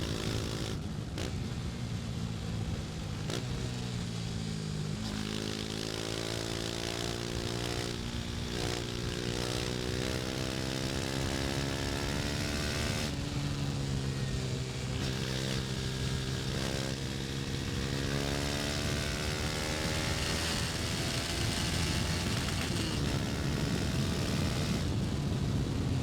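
KTM Duke 250's single-cylinder four-stroke engine running under way, its pitch falling and rising with the throttle and gear changes, over a steady rush of noise.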